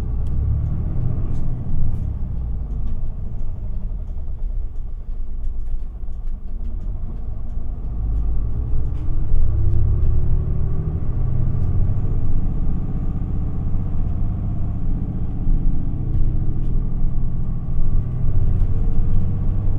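Cabin sound of an Isuzu Erga city bus (QPG-LV234L3) under way: a low diesel engine and road rumble. About eight seconds in it gets louder and the engine note rises as the bus pulls away and accelerates.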